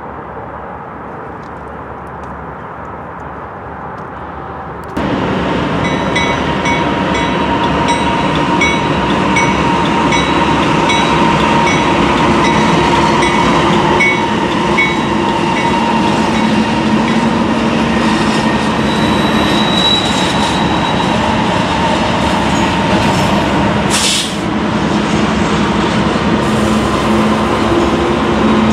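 Train rolling past at close range: a steady rumble of railcars with a regular clicking of wheels on the rails. A quieter rumble comes first, and the sound jumps abruptly much louder about five seconds in, with a brief hiss near the end.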